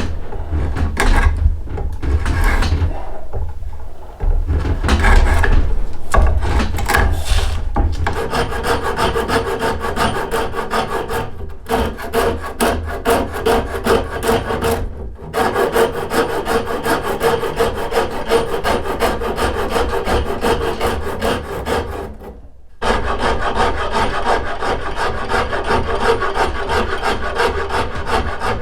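A hand rasp scraping a yew bow stave. The first strokes are uneven; from about eight seconds in they turn into a fast, even run, stopping briefly three times.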